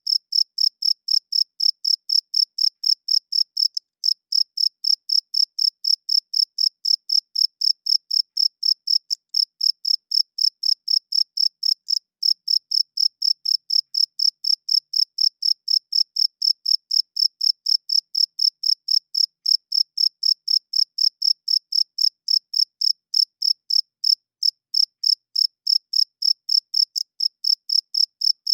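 A cricket chirping in a steady, even rhythm of about four short high-pitched chirps a second, pausing only briefly a few times. It is a male cricket's calling song, made by rubbing its wings together.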